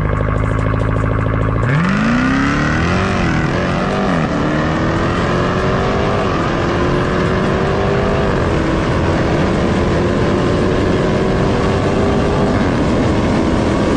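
Dodge Durango Hellcat's supercharged V8 held at steady revs, then accelerating hard from about two seconds in. Its pitch climbs, drops back briefly at each of several gear changes, and climbs again.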